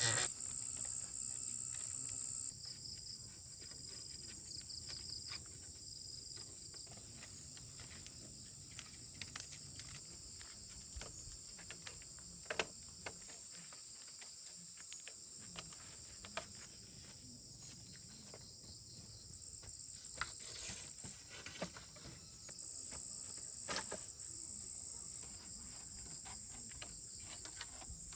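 Insects chirring in a steady high-pitched drone, louder in the first couple of seconds and again for a few seconds near the end, with scattered small clicks and rustles.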